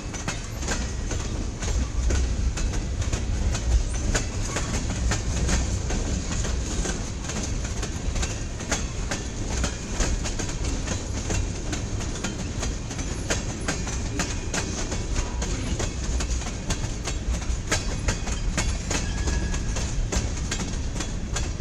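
CSX local freight train's cars rolling past: a steady rumble of wheels on rail with irregular sharp clacks as wheels pass over rail joints.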